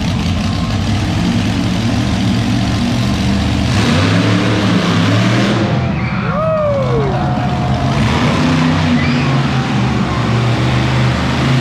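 Monster truck engine running loud, its pitch shifting as it revs about four seconds in. A short rising-and-falling tone sounds over it about six seconds in.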